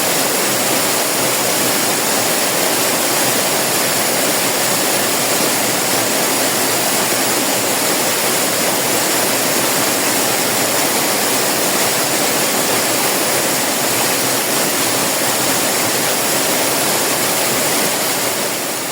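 Waterfall: water pouring and splashing in a steady, even rush that fades out near the end.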